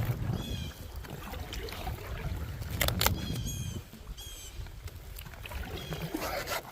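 Canoe on a shallow river: a low rumble of moving water under paddle strokes, with two sharp knocks about three seconds in. A bird sings a short descending phrase several times in the background.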